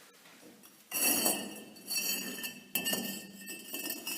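Ceramic facing bricks clinking against one another, several hard knocks with a high ringing tail, starting about a second in.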